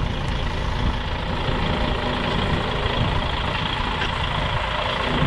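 Heavy diesel engine of a container truck running steadily at low revs.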